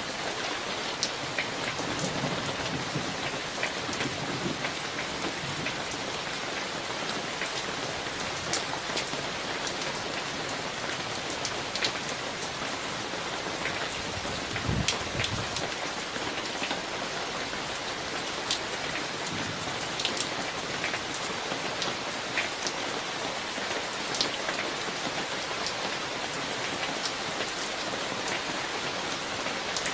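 Steady rain of a summer thunderstorm, a continuous hiss with many sharp drops striking close by.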